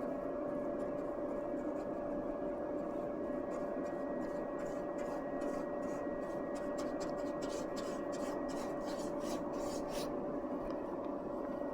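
Quick repeated rubbing strokes, about three a second, bunched in the middle of the stretch, over a steady hum.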